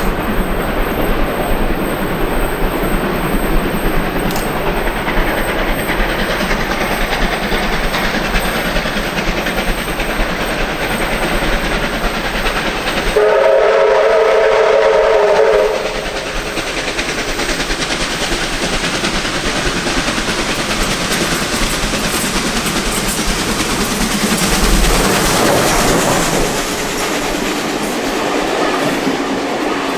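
Heritage train hauled by R766 and 4537 running on the rails, the wheels clattering over the rail joints. About halfway through, the locomotive sounds one long chime blast of several notes at once, lasting about two and a half seconds.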